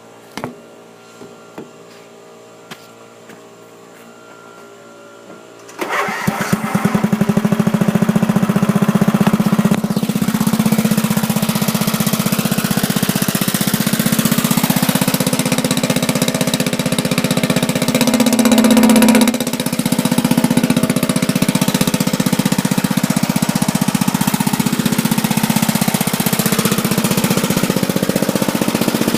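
Murray riding mower's engine starting about six seconds in after a few quiet seconds, then running steadily and loudly. A little past the middle its note rises briefly, then dips and settles back.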